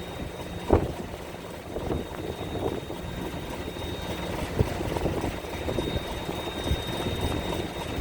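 Ferry's engine running steadily with a constant hum under a noisy rumble, with scattered knocks; the loudest knock comes just under a second in.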